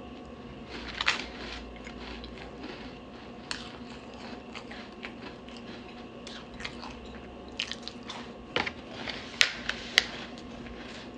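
Close-miked eating of crunchy chocolate-chip cookies: scattered crisp bites, crunches and mouth clicks, the loudest cluster near the end. A faint steady hum sits underneath.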